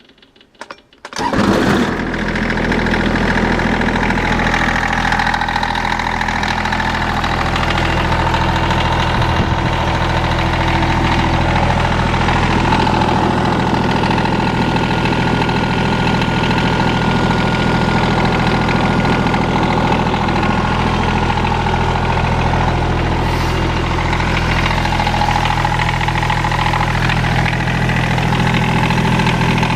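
Kubota BX2200 tractor's three-cylinder diesel engine cranked by the starter, catching about a second and a half in, then idling steadily.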